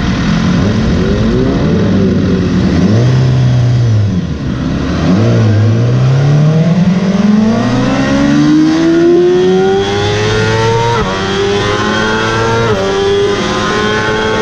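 Motorcycle engine on a race track, with revs dropping and blipping as it slows, then climbing steadily under hard acceleration. Near the end it makes quick upshifts, each a sudden drop in pitch followed by another climb.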